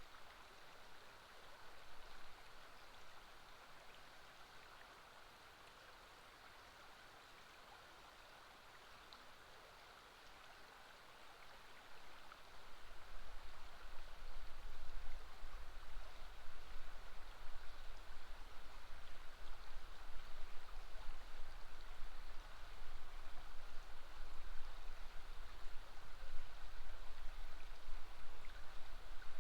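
River flowing at a bend, a steady even rush of water. About twelve seconds in, a low rumble joins it and the sound grows louder.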